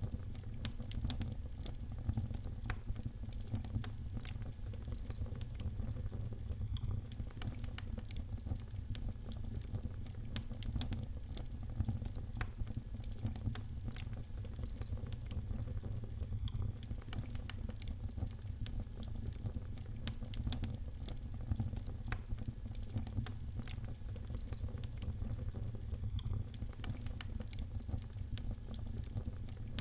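Wood fire crackling: frequent irregular snaps and pops over a steady low rumble.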